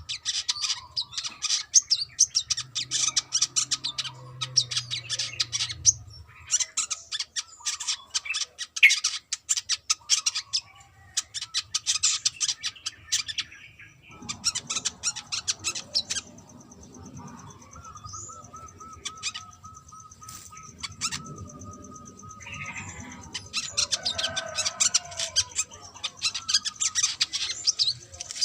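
Brown-throated sunbird singing: repeated bursts of rapid, high-pitched twittering chirps, with a sparser, quieter stretch about two-thirds of the way through before a long burst resumes.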